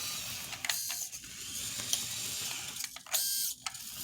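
Small electric drive motor and gearbox of a 1:32-scale RC John Deere 7290R tractor running, a steady high whine with gear chatter. Louder half-second buzzes come about a second in and again near the end as it works.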